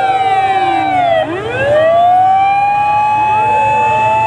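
Several fire engine sirens wailing together at different pitches; one sweeps down and climbs back up about a second in. Engines run low underneath.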